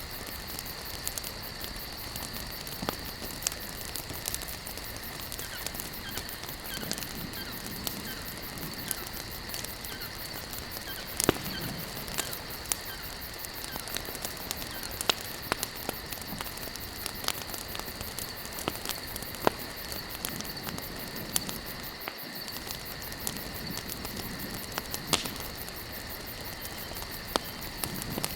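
Campfire of burning wood logs crackling, with irregular sharp pops several times a second over a steady hiss; one pop about 11 seconds in is the loudest. A steady high-pitched tone runs underneath throughout.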